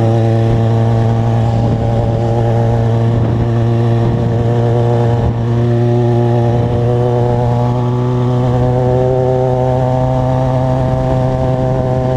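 Motorcycle engine running steadily under way, a constant drone that rises slightly in pitch about eight seconds in.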